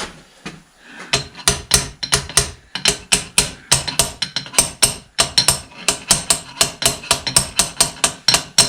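Hammer tapping rapidly and steadily on metal, several sharp blows a second, starting about a second in.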